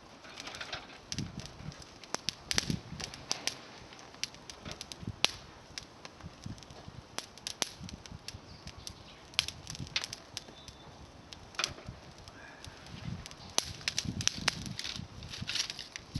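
Small fire of dry climbing-rose twigs crackling and snapping in irregular sharp clicks, with some soft low rustling as the twigs shift.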